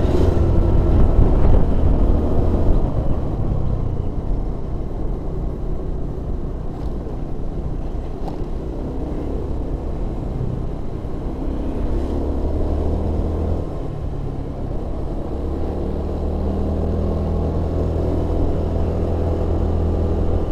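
Vehicle engine running while driving, a continuous low hum that changes pitch now and then as the load changes.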